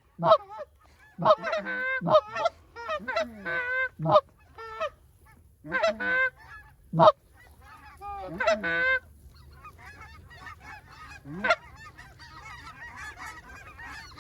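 White-fronted goose yelps: loud, short calls that rise and fall sharply in pitch, coming in quick clusters, then from about 9 s in a fainter, steady chatter of many geese calling over one another.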